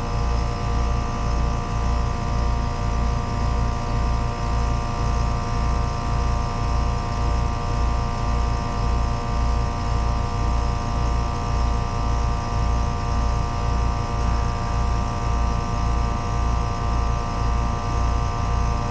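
Trane two-stage 3-ton heat pump running in second-stage heating: a steady compressor and fan hum with a low throb pulsing just under twice a second. The unit is struggling to hold pressure in second stage, a fault the technician suspects comes from the electronic expansion valve (EEV) control board.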